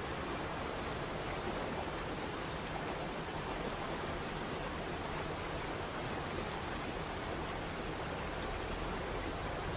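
Waterfall: steady rushing water, an even unbroken hiss.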